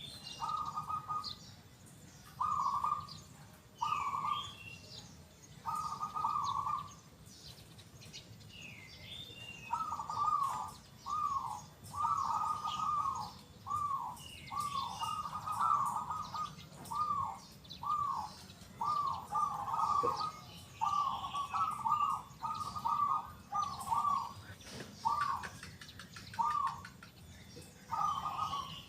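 Zebra dove (perkutut) cooing over and over in short rolling phrases, sparse at first and then in a quick run of phrases in the second half. Other small birds chirp higher and fainter in the background.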